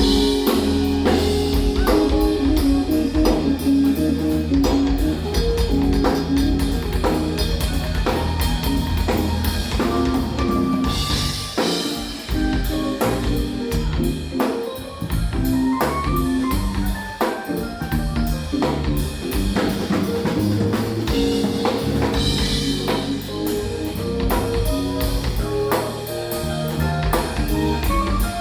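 Live jazz-fusion band playing: keyboards, electric bass and drum kit together, with a busy beat under held keyboard chords.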